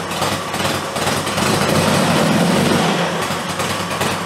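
1966 Triumph Spitfire's four-cylinder engine running steadily, a little above idle, swelling slightly about two seconds in. At this speed the generator is charging the battery.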